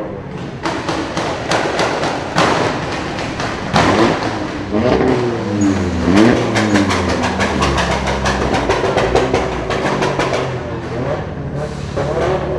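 Modified car engines idling and revving in short blips that rise and fall in pitch, with many sharp cracks and pops scattered throughout.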